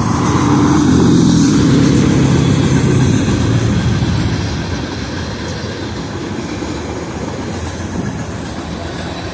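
Freight train of hopper cars and refrigerator cars rolling past, a steady rumble of wheels on rail, louder for the first few seconds and then settling to an even level.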